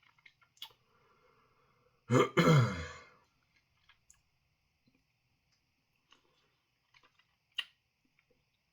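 A man clears his throat with a short, harsh cough about two seconds in, falling in pitch, as the hot chilli-pepper dust catches in his throat. A few faint clicks come before and after it.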